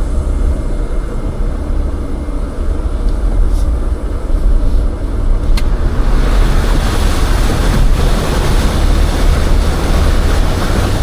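Off-road vehicle driving along a dirt trail: a steady low engine rumble with tyre and wind noise that grows louder about halfway through, and one brief click in the middle.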